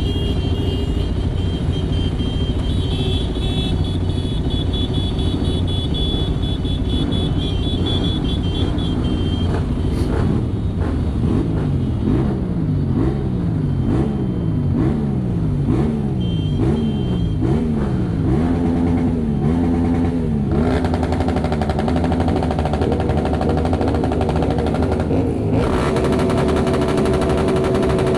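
Motorcycle engines running in a large group ride, with a steady low rumble throughout. In the middle, an engine revs repeatedly, its pitch rising about once a second.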